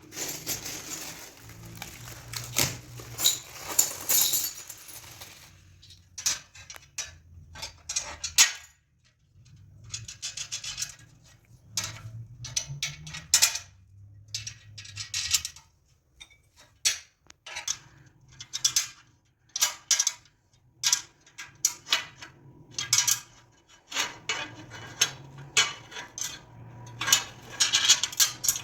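Irregular metallic clinks, knocks and rattles of tools and hardware being handled, in bursts with short pauses between.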